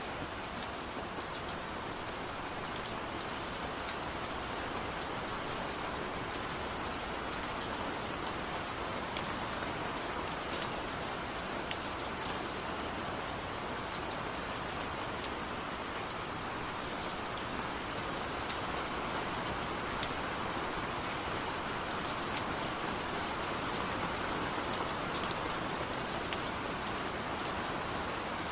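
Steady rain falling, with scattered sharp drop taps standing out against the even hiss.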